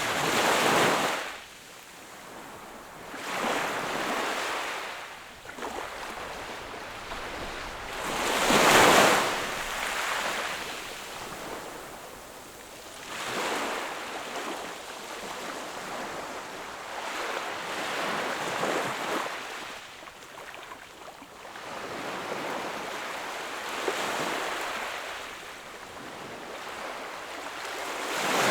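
Sea waves breaking and washing on the shore, the rush of surf swelling and fading every four to five seconds, with one bigger wave about a third of the way in.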